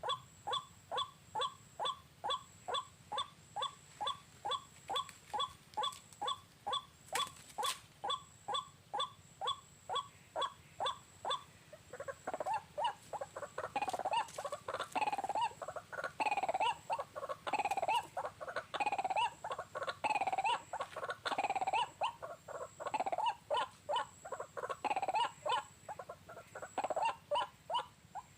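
White-breasted waterhen (ruak-ruak) calling: a run of short, evenly repeated calls, two to three a second, then from about twelve seconds in louder, longer and more varied overlapping calls.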